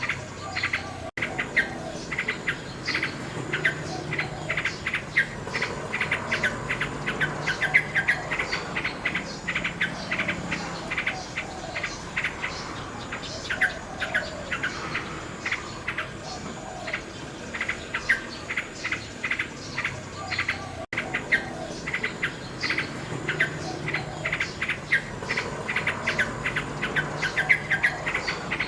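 Common nightingale singing, a run of rapid repeated notes and trills in phrase after phrase.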